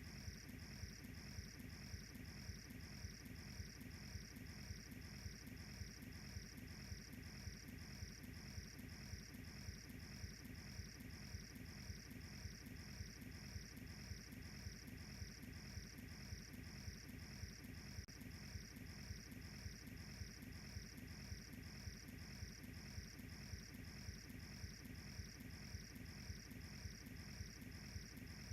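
Crickets chirping in an even, steady pulse of about two chirps a second, over the faint low crackle of a wood fire.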